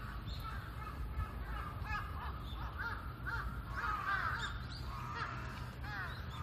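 Birds calling, many short harsh calls overlapping one another, over a steady low rumble.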